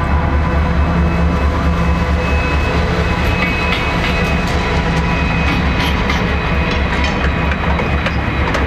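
Train passing close by: a Union Pacific diesel-electric locomotive's engine running with a steady low throb. From about three seconds in, the wheels of the towed Big Boy steam locomotive No. 4014 add clicks over the rail joints and a thin high steel squeal.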